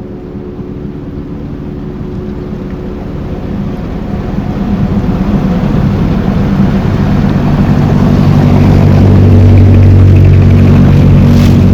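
Motorboat engine running and getting steadily louder for about ten seconds as it picks up speed, with a rushing noise of water and wind over it.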